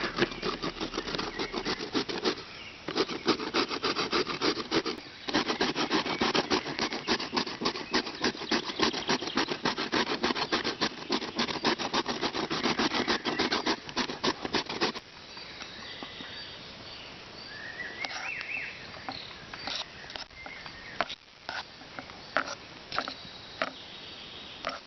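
Carrot being grated on a homemade hand grater: fast, rhythmic rasping strokes with two short breaks, stopping about fifteen seconds in. After that come a few faint chirps and clicks.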